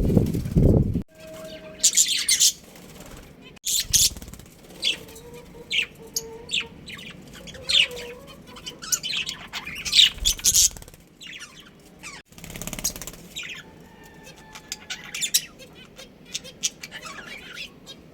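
Budgerigars chirping in many short, high calls, with occasional low fluttering thumps from their wings.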